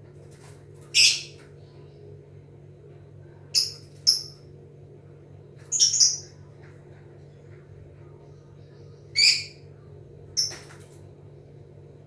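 Lovebird giving short, loud, high-pitched calls, about six over several seconds, some in quick pairs, with a low steady hum underneath.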